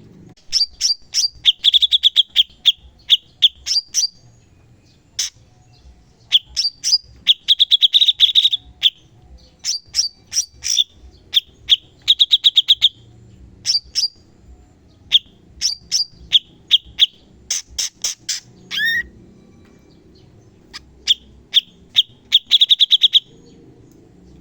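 Cucak cungkok singing its rapid-fire 'tembakan' song: sharp, high chip notes and fast rattling trills in repeated bursts, with a short falling note about two-thirds of the way through.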